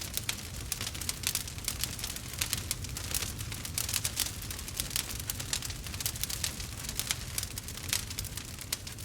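Burning wood fire crackling and popping: many small, irregular snaps over a steady low rumble.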